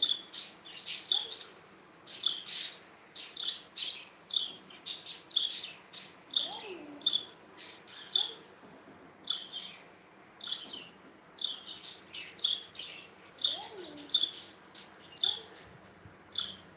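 Pet budgerigars chirping: short, sharp chirps in quick irregular succession, several a second.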